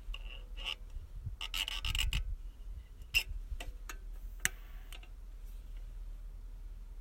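Scattered clicks, taps and short scraping rubs, with a cluster of scrapes about two seconds in and two sharp taps about three and four and a half seconds in.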